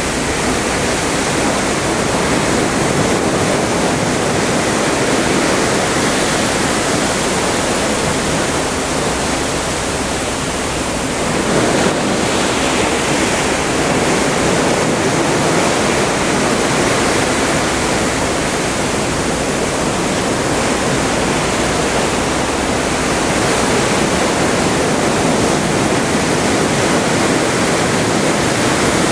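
Atlantic Ocean water rushing and washing past a moving cruise ship, a steady wash of noise that swells slightly about twelve seconds in.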